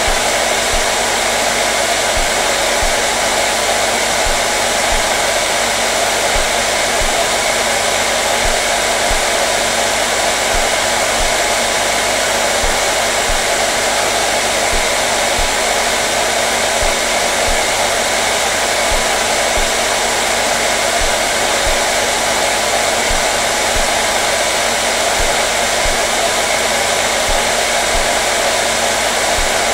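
Hair dryer running steadily: a constant rush of blown air over a motor hum, unchanging throughout.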